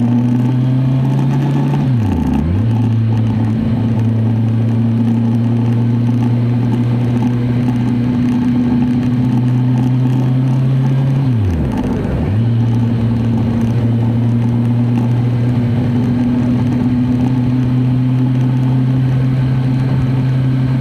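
Kawasaki Z1000SX inline-four engine running at a steady cruise while riding, with a constant rush of air noise. The engine note dips briefly and comes back twice, about two seconds in and again about twelve seconds in.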